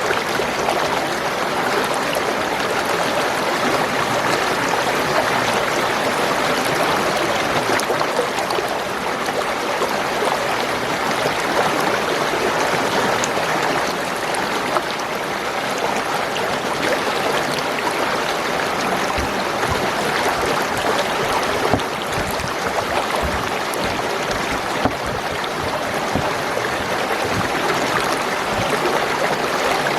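Spring water gurgling and trickling in a steady, continuous flow.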